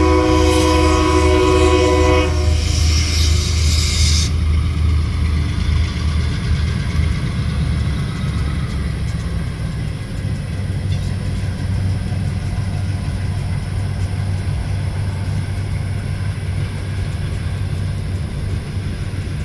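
A Cincinnati Eastern Railroad freight train's diesel locomotive blows its air horn in one chord of several notes lasting about two seconds at the start. After that the engine and the rolling freight cars keep up a steady low rumble as the train passes.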